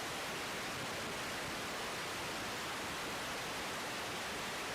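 Steady static hiss of an air traffic control radio feed between transmissions.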